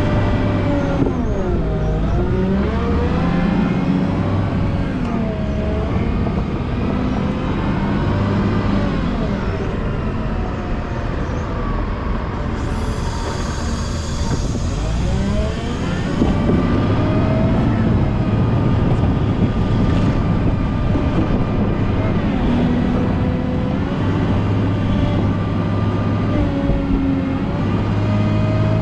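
Volvo L90H wheel loader's diesel engine working while plowing snow, its pitch rising and falling again and again as the revs change under load. A high hiss joins in for about three seconds midway.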